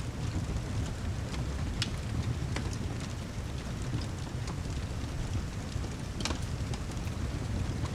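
Rain-and-fireplace ambience: a steady low rumble of heavy rain with occasional sharp crackles and pops from a wood fire, one louder pop about six seconds in.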